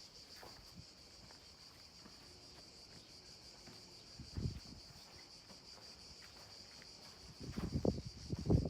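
Insects chirring steadily in a high, continuous drone. A short low rustle comes about halfway through, and heavier low thumps and rustles come near the end.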